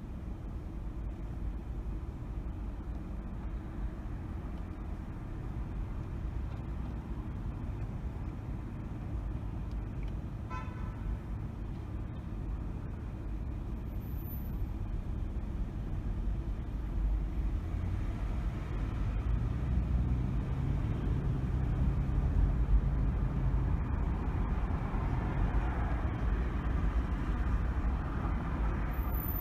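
Steady road and engine rumble of a car driving through traffic, with a short horn toot about ten seconds in. From about eighteen seconds a deeper engine hum builds and grows louder.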